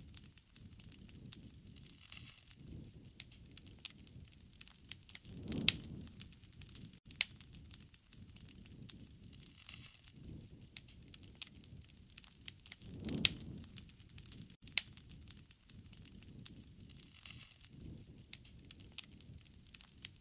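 Bonfire burning: wood crackling with frequent sharp, irregular pops over a low steady rush, which swells louder about six seconds in and again about thirteen seconds in.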